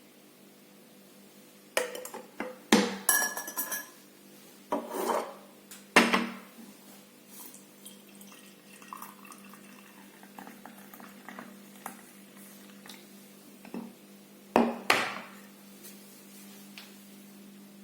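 Ardesto 1.5 L teapot and its parts being handled, clinking and knocking like dishware: a cluster of clattering knocks a couple of seconds in, a sharp knock about six seconds in and another cluster near the end, with light taps between.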